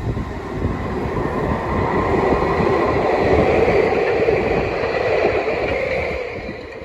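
A train passing, its rumble and rolling noise building to a peak mid-way and fading away near the end.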